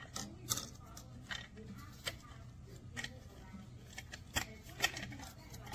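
Scattered light clicks and rustles of small objects, likely parts or accessories, being handled, a few times a second apart, over a low steady hum. No motor running.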